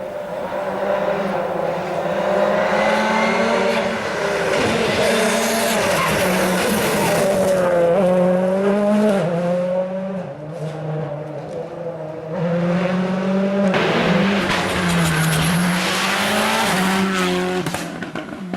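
World Rally Car's 1.6-litre turbocharged four-cylinder engine at racing speed, its note dipping and climbing again with each gear change and lift of the throttle. It eases off about ten seconds in, then comes back hard about two seconds later.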